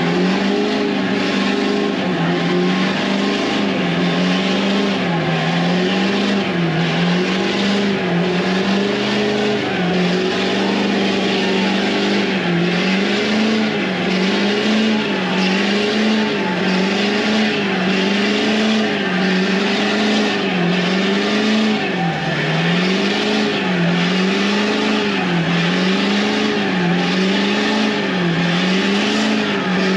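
An engine held at high revs throughout, its pitch dipping and recovering about once a second, over a loud, steady hiss.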